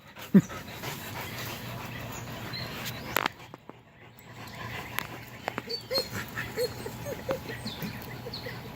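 A dog panting after a hard run, with quick short breaths about three a second in the second half.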